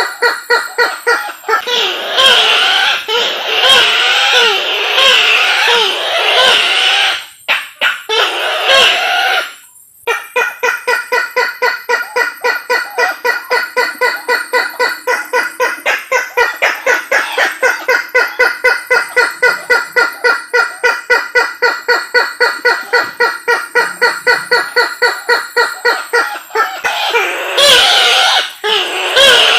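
Recorded lure call of the Sulawesi kareo (tattakeo labuju), a waterhen: a loud, fast series of repeated notes, about five a second. The notes turn into wavering, overlapping phrases at the start and near the end, with two short breaks about a quarter and a third of the way in.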